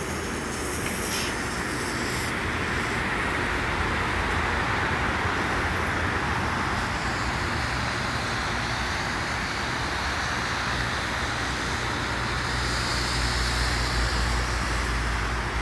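Iron Man yellow-and-purple smoke firework burning with a steady hiss.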